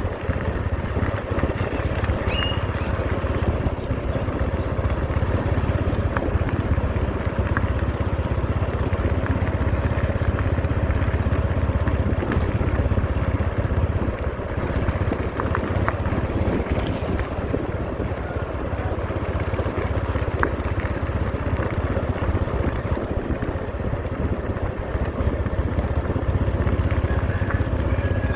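Heavy diesel engine of asphalt-paving machinery running steadily with a deep, even rumble. A brief high squeak sounds about two seconds in.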